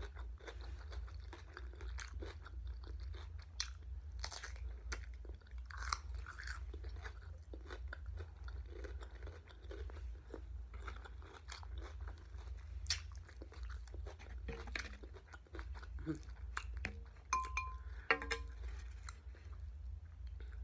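Close-up chewing of crisp raw cucumber, with frequent short crunches. A few light clinks of a fork on the dish come near the end, over a steady low hum.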